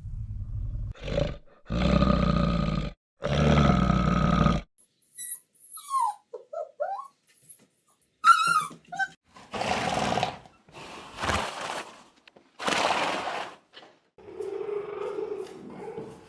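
A run of separate animal calls. It opens with low, rough growl-like calls, then comes a string of short high squeaks, then three noisy bursts, and a softer pitched call near the end.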